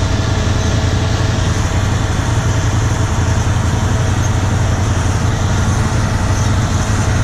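John Deere 7720 combine running steadily: a constant low diesel drone with machinery noise, unchanging throughout.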